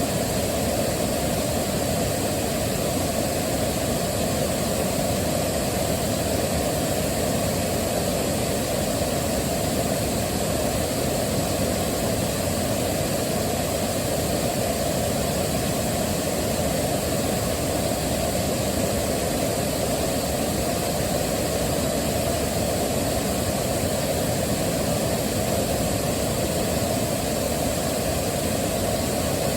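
Waterfall: water rushing and falling, a steady, unbroken rushing noise.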